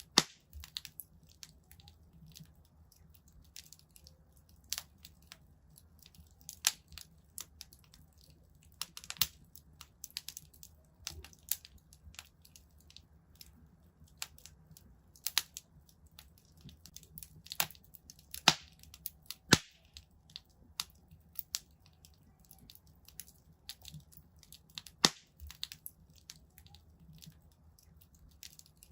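Wood fire burning in a fireplace, crackling with irregular sharp pops and snaps of varying loudness, several of them loud, over a faint low rumble.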